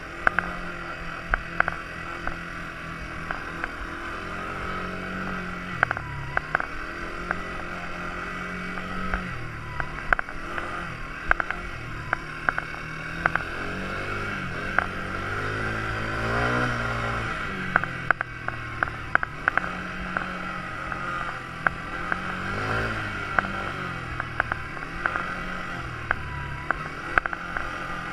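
Quad bike engine running, its note rising and falling as the throttle is opened and eased off, with frequent sharp knocks and rattles throughout.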